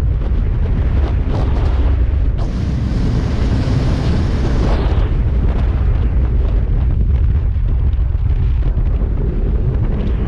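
Heavy wind buffeting the microphone of a motorcycle at riding speed, a constant low rumble. A brighter rushing hiss swells in about two seconds in and drops away a little before the five-second mark.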